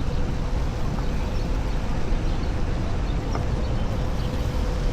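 Wind buffeting the microphone during a Onewheel ride, a steady low rumble, with a faint steady hum underneath.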